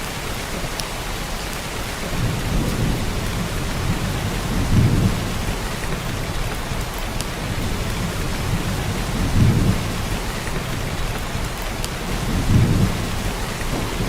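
Heavy downpour of rain with a steady hiss and scattered close drops. Low rumbles of thunder swell up and fade several times, about 5, 9 and 12 seconds in.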